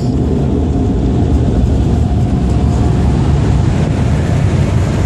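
Car wash air blowers drying the car, a loud steady rush of air heard from inside the car.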